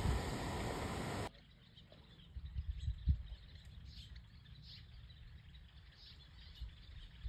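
A steady rushing hiss that cuts off abruptly about a second in, followed by faint bird chirps over a low rumble of wind.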